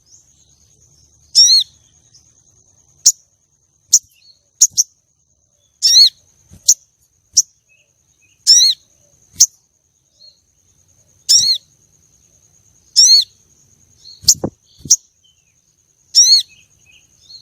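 Female ruby-cheeked sunbird (sogon) giving its lure call, which excites males: short high chirps and sharp chips at irregular intervals, about a dozen in all. A faint steady high-pitched tone runs underneath.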